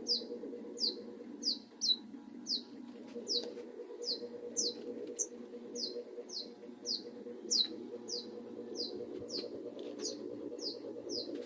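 A small bird indoors calling over and over in short, falling chirps, about two a second, over a steady low hum.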